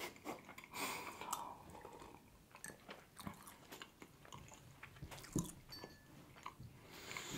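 Faint mouth sounds close to the microphone: a sip of tea near the start, then quiet chewing with small scattered clicks.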